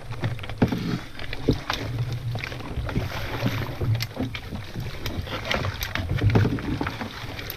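A small paddled boat pushing out through an alder bush: branches scraping and knocking against the boat and the GoPro, with many sharp clicks and knocks over a low rumble.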